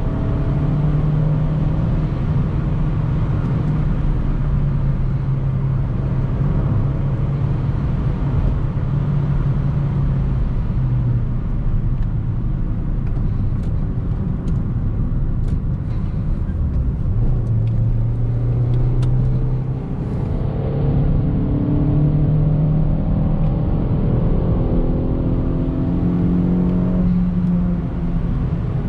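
Suzuki Swift Sport's 1.6-litre four-cylinder engine running as the car is driven, over steady road noise. The engine note steps down and back up in pitch several times, with a few light clicks in the middle.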